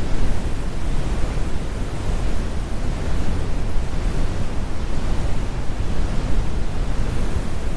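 Synthetic brown noise: a steady, deep rumbling hiss with most of its energy in the lows and the highs rolled off.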